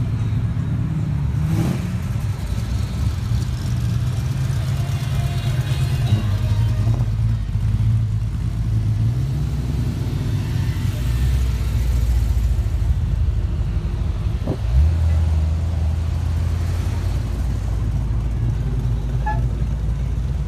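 Car engines running close by, a deep low rumble whose note shifts as the engines change. About fifteen seconds in there is a sharp click, and a single steadier low engine note takes over.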